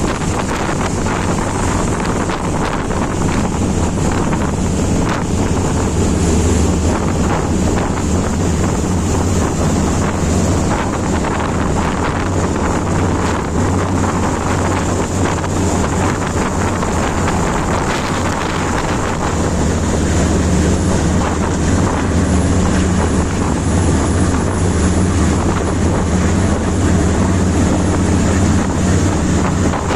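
Work boat's marine engine running steadily during an engine test, a loud, continuous deep drone that swells slightly a few times.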